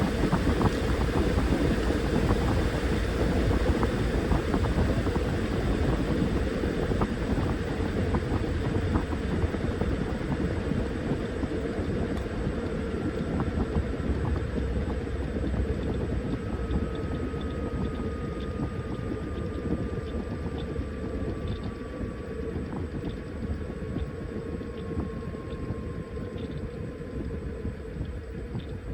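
Washing machine running with a steady rumble and many small clicks from the turning drum. In the second half a faint motor whine slowly falls in pitch while the overall sound eases off.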